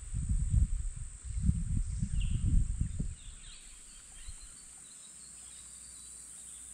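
Irregular low thumps and rumbling for about the first three seconds, then quiet with a steady high-pitched insect drone and a few faint bird chirps.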